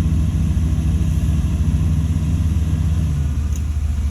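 Large diesel engine of heavy earthmoving machinery running steadily at a low, even pitch.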